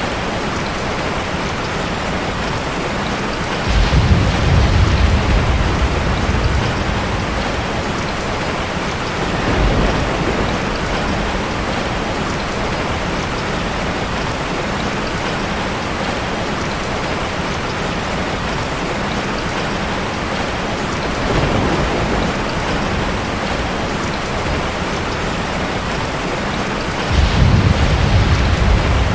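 Heavy rain falling steadily, with low rolls of thunder swelling about four seconds in, briefly around ten seconds, again after twenty seconds, and loudest near the end.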